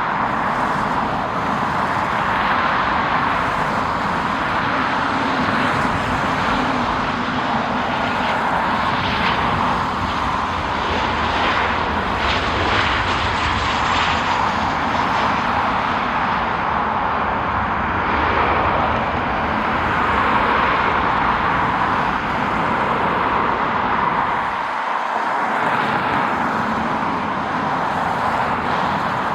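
Jet airliner's engines running, a steady rushing noise that holds at the same loudness throughout.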